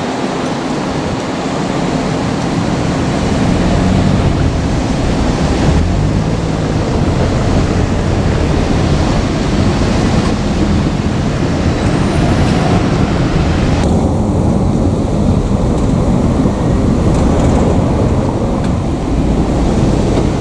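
JR Kyushu 787 series electric express train running past at close range: a loud, steady rumble of wheels and running gear with a low hum underneath. About two thirds of the way through, the hiss in the high range drops away suddenly while the rumble carries on.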